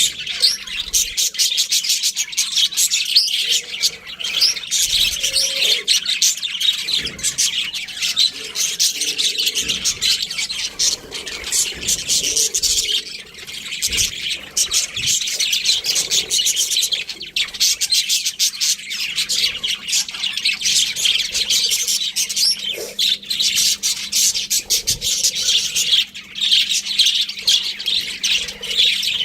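Budgerigars chattering and chirping nonstop, a dense stream of overlapping high chirps and warbles from several birds.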